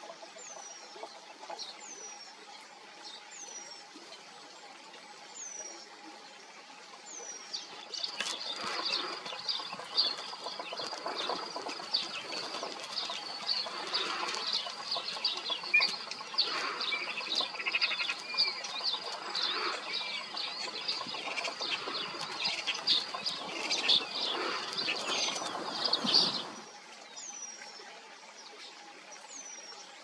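Eurasian penduline tit giving thin, high, descending whistled calls about once a second. A louder stretch of many rapid high calls over rustling comes in about a quarter of the way through and cuts off abruptly, after which the single descending whistles resume.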